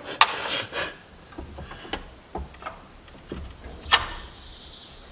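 Hand tools working a metal engine bracket loose: scraping and rubbing with several sharp metallic knocks, one just after the start and another about four seconds in.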